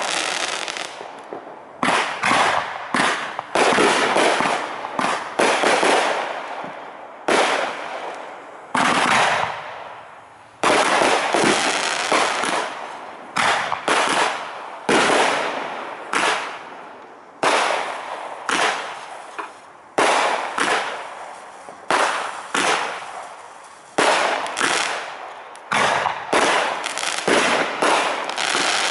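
Aerial fireworks shells bursting one after another, a sharp bang every second or two, sometimes several in quick succession, each fading out in a long tail.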